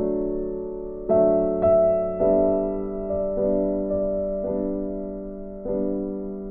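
Background piano music: soft chords struck every second or so, each note ringing and fading.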